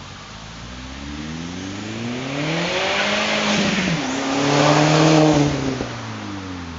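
Skoda Octavia RS 1.8T turbo four-cylinder through a custom stainless exhaust, accelerating hard: the revs climb, drop sharply at a gear change about four seconds in, climb again to the loudest point, then fall away near the end.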